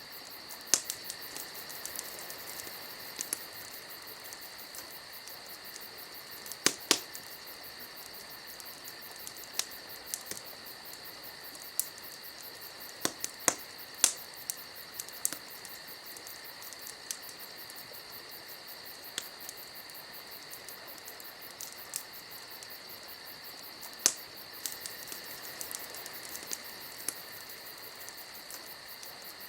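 Wood fire crackling, with irregular sharp pops scattered through, over a steady high-pitched hiss.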